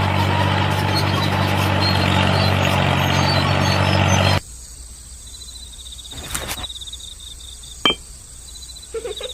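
A small motor running steadily, which cuts off abruptly about four seconds in. After that come a faint high whine, two sharp clicks, and the start of frog croaking near the end.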